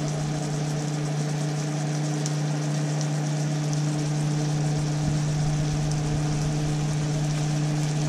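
Ground beef and vegetables frying in a skillet, a faint crackling sizzle, over a steady low hum.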